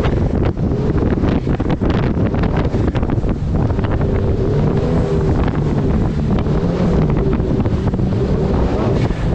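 Turbocharged Honda engine of a mini jet boat running steadily under way, its pitch wavering slightly, under heavy wind buffeting on the microphone and rushing water.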